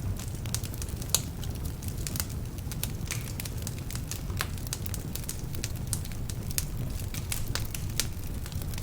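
Wood fire burning in a fireplace: a steady low rumble of flames with many irregular sharp crackles and pops, the loudest pop about a second in. The logs are somewhat damp, which adds to the crackling.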